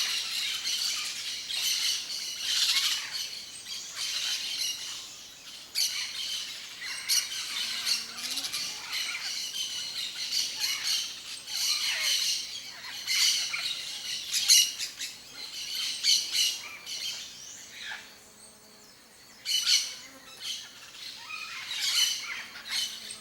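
Yellow-faced parrot (Alipiopsitta xanthops) giving repeated calls one after another, with a short pause about eighteen seconds in.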